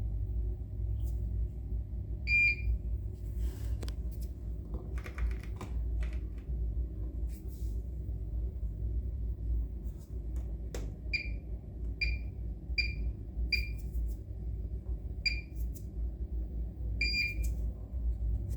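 Short electronic beeps from a Bosch Serie 6 washing machine's control panel as its buttons are pressed: one beep, then a run of six about a second apart later on, over a low steady hum.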